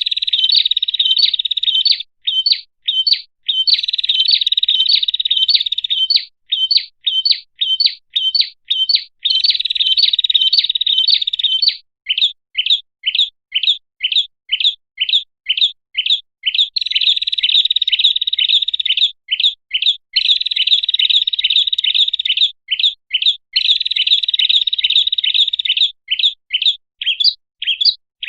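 Prinia (prenjak) calling: rapid sharp high chips, about three a second, alternating with stretches of dense buzzing trill a few seconds long. This is a bird-lure recording meant to draw prenjak in.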